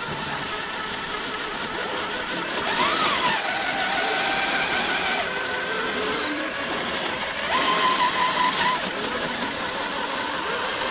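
Radio-controlled rock crawler trucks' electric motors and gears whining as they crawl over rock. The pitch rises and falls with the throttle, and the whine grows louder about three seconds in and again about eight seconds in.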